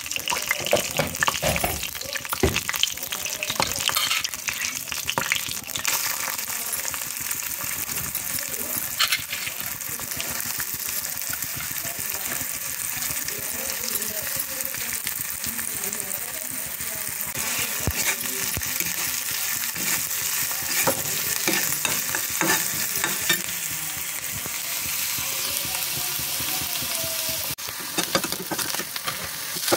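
Hot oil sizzling in a kadhai as cumin seeds and then chopped onions fry, with a spatula scraping and knocking against the pan as the onions are stirred.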